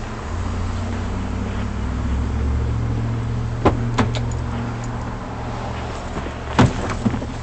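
A vehicle engine idling with a steady low hum, broken by a quick run of three sharp clicks in the middle and two more clicks or knocks near the end.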